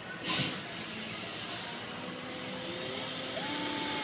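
Milwaukee M12 cordless 1/4-inch ratchet running, driving a short screw into the air filter box to give the latch a lip to catch on. A short loud burst comes just after the start, then the motor runs steadily, its whine rising in pitch about three seconds in as the screw goes in.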